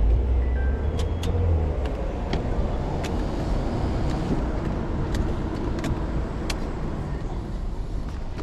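A car's engine and tyre noise close by, with a deep rumble that is loudest in the first two seconds and then settles to a steady background, and a few sharp clicks over it.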